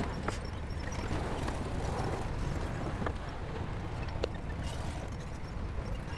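Diesel engine of heavy earthmoving machinery running with a steady low rumble, with a few sharp metallic clicks or clanks over it.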